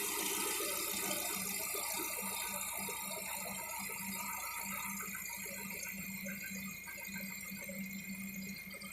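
Lada Vesta 1.6 engine running with a steady hum and a light rattling knock, which the owner takes for piston knock.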